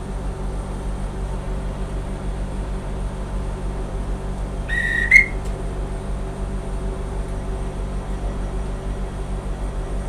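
A single short whistle blast about halfway through, lasting about half a second and stepping up slightly in pitch: a railway dispatch whistle at the station stop. Under it is the steady low hum of the train.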